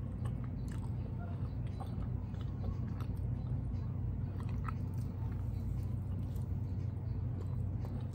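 Close-miked biting and chewing of a baked chicken drumstick, with many small wet mouth clicks, over a steady low hum.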